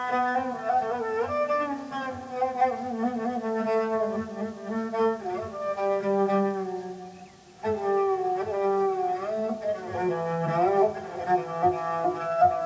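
Instrumental Turkish folk music: a bowed fiddle plays a sliding, ornamented melody over a held lower note. It breaks off briefly about seven and a half seconds in, then starts again.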